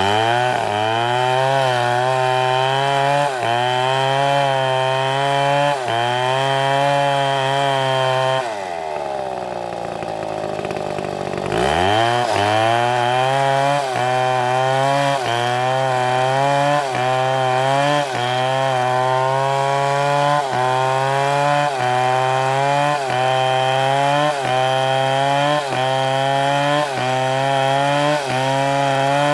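STIHL two-stroke chainsaw cutting wood at full throttle, its engine pitch dipping and recovering about once a second as the chain bites. Roughly a third of the way in, the throttle is let off to idle for about three seconds, then it revs back up and carries on cutting with the same rhythm.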